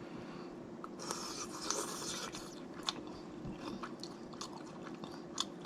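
Close-miked eating of snow crab legs: scattered sharp clicks and cracks of shell and chewing, with a denser noisy stretch of a second and a half starting about a second in. A faint steady hum lies underneath.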